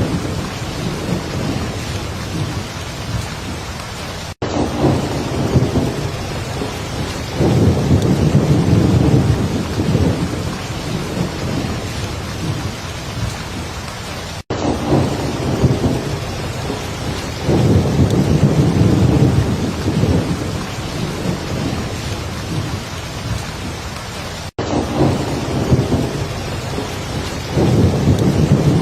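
Heavy rain falling steadily, with low rolling thunder rumbles swelling and fading. The recording loops about every ten seconds, with a brief dropout at each repeat.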